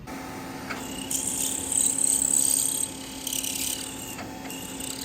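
Vertical milling machine running with a steady motor hum while its rotating cutter cuts into the workpiece, giving a high scraping cutting noise about a second in and again just after the three-second mark.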